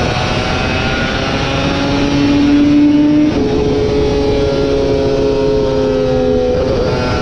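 Racing superbike engine running hard at high revs over a steady low rumble. The pitch climbs, steps abruptly about three seconds in, then slowly falls before changing again near the end.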